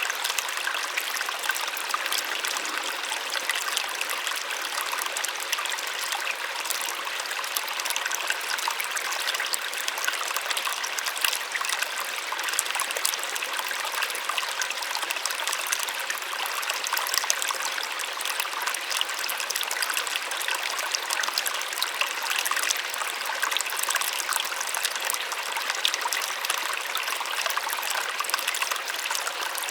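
A small waterfall: water splashing and trickling steadily, a soft rush with lots of fine splashes and no deep rumble.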